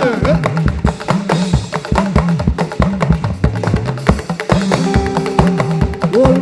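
Live praise band music without singing: a busy, driving percussion rhythm of drums and wood-block-like strikes over a repeating bass line, with held keyboard notes coming in near the end.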